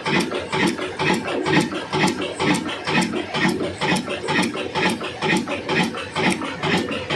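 Old Ruston diesel engine running with an even, rhythmic knocking beat of several strokes a second, with mechanical clatter over it.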